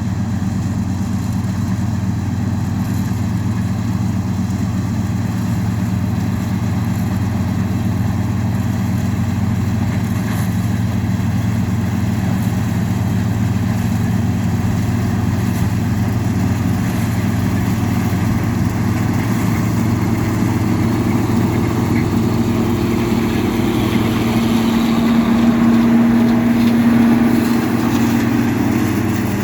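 Farm machinery engine running steadily, with a higher hum swelling in about two-thirds of the way through and easing off near the end.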